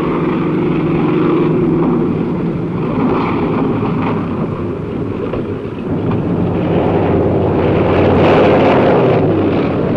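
Propeller aircraft engine droning steadily over a rush of wind, growing louder in the second half.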